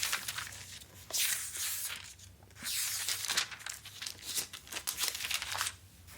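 Crinkling and rustling, as of paper or a crinkly material being handled, in about four bursts of a second or so each with short lulls between.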